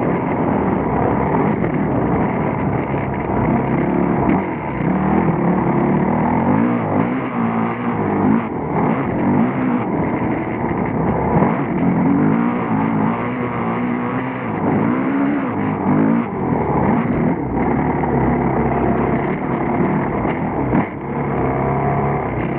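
Motocross bike engine heard up close from a handlebar-mounted camera, the revs rising and falling over and over as the bike is ridden.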